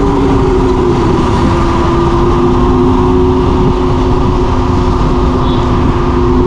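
Yatri electric motorcycle's motor whining steadily while riding, its pitch sagging slightly and rising again near the end, over heavy wind rumble on the microphone.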